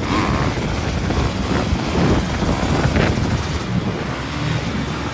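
Dirt bike engine running under way, its revs swelling about two and three seconds in.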